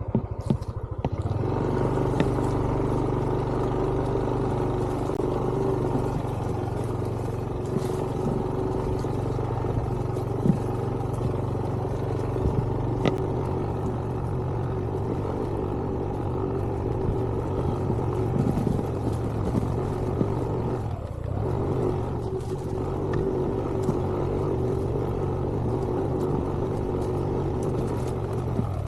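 A vehicle engine running at a steady pace throughout, with scattered brief knocks and rattles.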